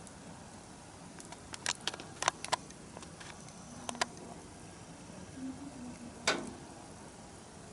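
Wood bonfire crackling: a quick run of sharp pops about two seconds in, another pop near four seconds, and a louder one a little after six seconds, over a steady low hiss.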